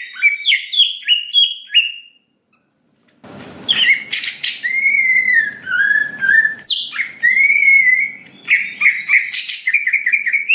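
A cucak ijo (green leafbird) singing loudly: a fast run of repeated chirps, a second-long break, then varied whistled phrases with sweeping and falling notes over a faint hiss, and fast repeated chirps again near the end.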